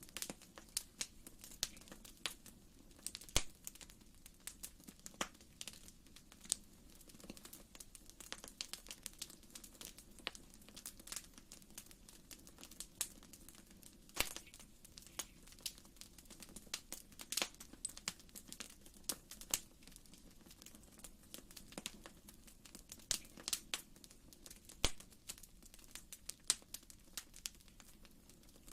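Wood fire in a fireplace crackling: frequent, irregular sharp pops and snaps over a faint steady low rush.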